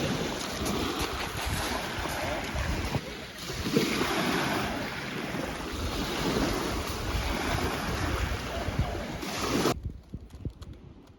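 Lake Superior waves washing onto the shore in slow surges, with wind rumbling on the microphone. The sound drops off suddenly near the end to something much quieter.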